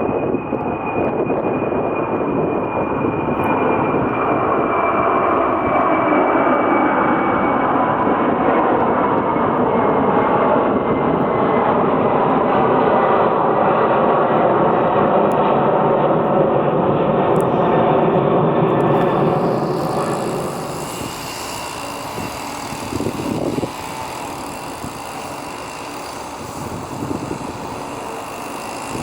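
Jet airliner engines, a loud, dense noise with a thin high whine that slowly falls in pitch, dropping away about twenty seconds in.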